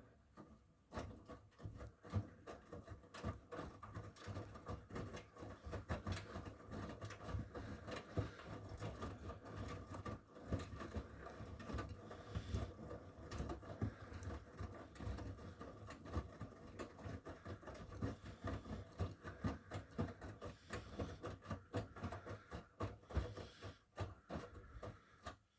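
Miele W1 front-loading washing machine turning its drum during a wash, with irregular soft knocks of laundry tumbling over a steady motor whine. The sound cuts off suddenly at the very end.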